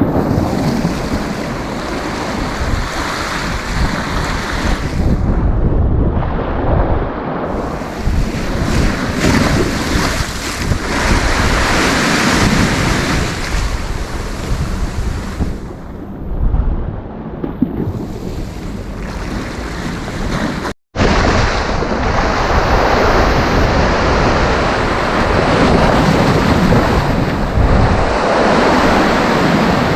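Sea waves breaking and washing up the shore in a steady, swelling surf, with wind rumbling on the microphone. The sound cuts out for an instant about two-thirds of the way through.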